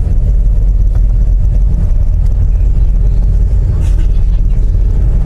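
A ship's engine running with a loud, steady low rumble, heard on board.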